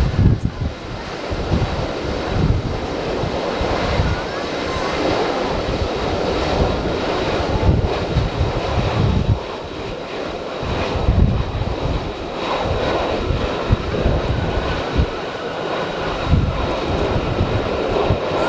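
Airliner engine noise, steady, with gusting wind rumbling heavily on the microphone.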